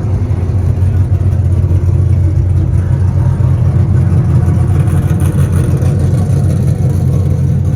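A truck engine running loudly at steady high revs, with a rough, fast-pulsing low rumble.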